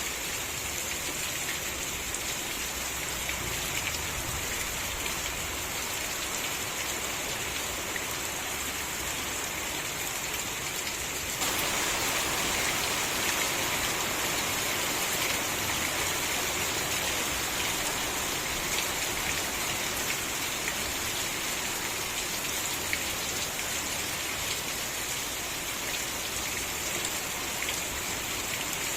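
Steady rain falling, with scattered individual drops ticking; the rain grows a little louder about a third of the way in.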